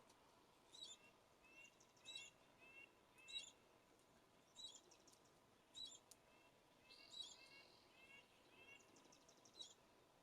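Faint birdsong: a short, high call repeated about once a second, with runs of quicker, lower chirping notes between the calls.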